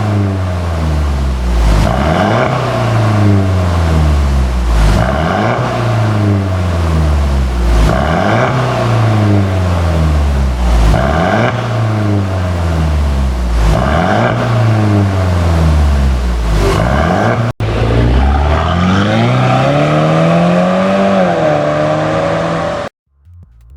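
Mercedes-Benz W205 C200 turbocharged four-cylinder revving through an aftermarket dual valve exhaust. There are about six sharp throttle blips, one every three seconds or so, each falling back slowly. Then comes one longer rev that rises and falls before the sound cuts off near the end.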